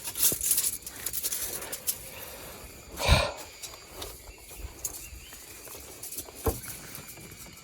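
Wooden poles being handled in the forest: rustling and scraping, a heavy thump about three seconds in and a sharp knock about six and a half seconds in.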